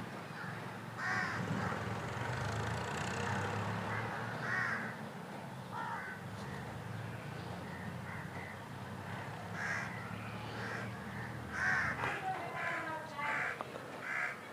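Crows cawing repeatedly in short calls at irregular intervals, over a steady low hum.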